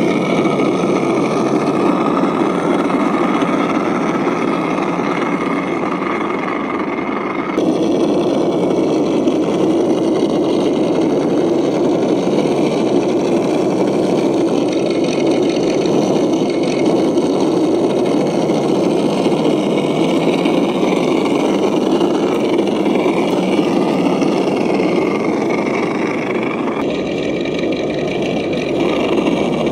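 Axial SCX10 radio-controlled crawler's electric motor and drivetrain running steadily as it drives through shallow water and mud. The sound changes abruptly about seven seconds in and again near the end.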